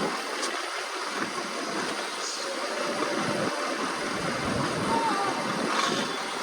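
Steady rushing noise on a fishing boat at sea, with faint voices underneath.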